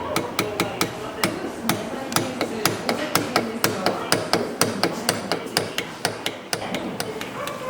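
A hammer striking repeatedly in a quick, steady run of blows, about four a second, with a brief pause near the end.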